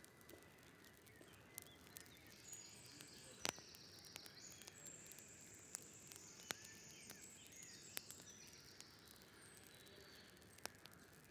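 Faint outdoor ambience: a high, wavering trill from about two and a half to nine seconds in, with scattered sharp clicks throughout.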